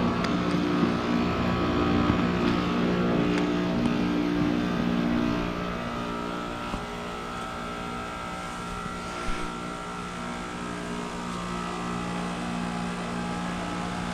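2024 Carrier Comfort 15 heat pump outdoor unit running steadily: compressor hum with several steady tones and the fan's airflow. It drops slightly in level about five seconds in, then holds steady.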